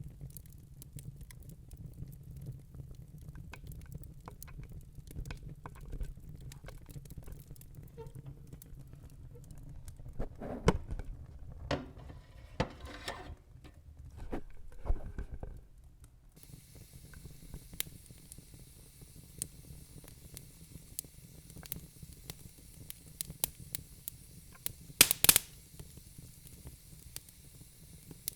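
Logs burning in a fireplace, crackling with scattered sharp pops and snaps over a low rumble of the flames. A faint steady hiss joins about halfway through, and the loudest burst of pops comes near the end.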